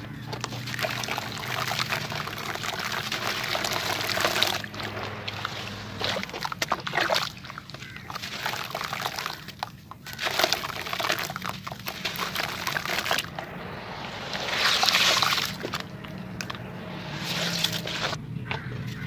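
Gritty crumbling and crunching of sand-cement or mud clumps, in uneven bursts of fine crackle with a few brief pauses.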